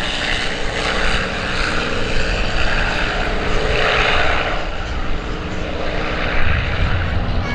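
Vintage single-engine piston light aircraft flying at low level, a steady propeller-engine drone.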